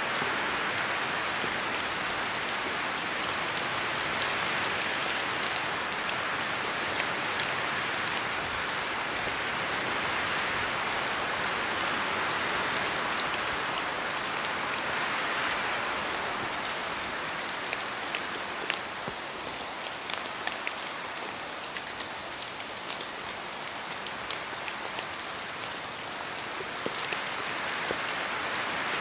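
Steady rain falling, with many small drop ticks over an even hiss that swells and eases slowly, a little softer for a while past the middle.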